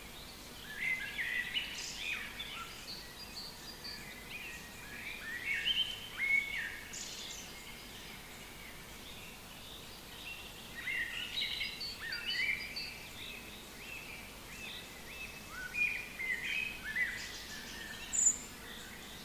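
Wild birds singing: bursts of quick, high chirping and warbling phrases come and go with quieter gaps between, over a faint steady background hiss.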